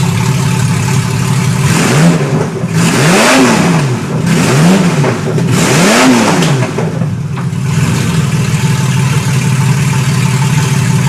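BMW 850's V12 engine running with no exhaust system, idling, then revved four times about two to seven seconds in, each rev rising and falling back, before settling to idle again.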